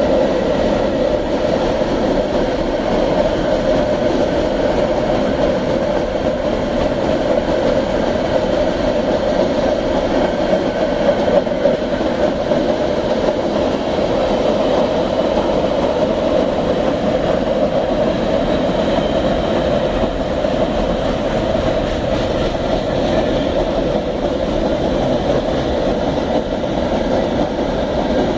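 Iron ore freight train rolling past, a steady continuous noise of steel wheels running on the rails with a faint clatter of wagons.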